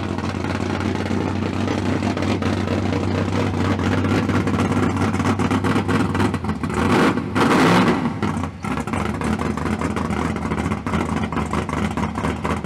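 Car engine running steadily with a low hum, which swells louder for about a second around seven seconds in.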